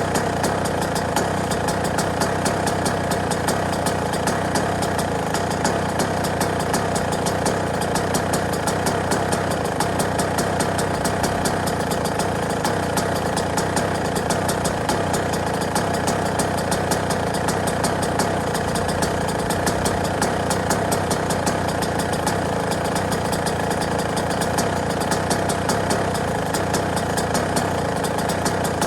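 Yamaha YZ125 two-stroke single-cylinder dirt bike engine idling steadily, a fast even putter with a crackly, rattly top end that never changes in speed or level.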